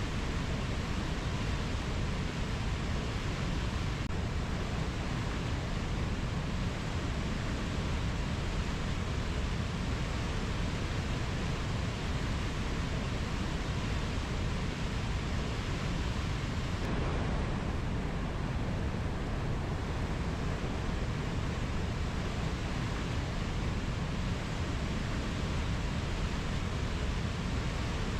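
Steady, even rushing noise of a rainforest nature-sounds ambience, with no distinct bird or insect calls standing out.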